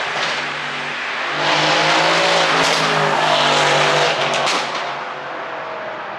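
Mercedes-AMG C63 twin-turbo V8 exhaust: the engine climbs in revs about a second and a half in and holds. It lets off about four seconds in with a few sharp pops and crackles from the tuned exhaust, then settles to quieter running.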